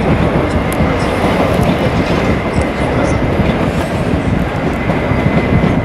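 Electric train running on the rails with a steady loud rumble and wheel clatter. A faint steady high tone runs through it.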